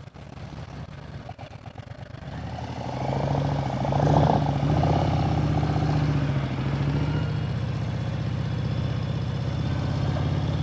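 Harley-Davidson Road Glide's V-twin engine, quiet at first, then opening up and getting louder about two and a half seconds in, and running steadily under way.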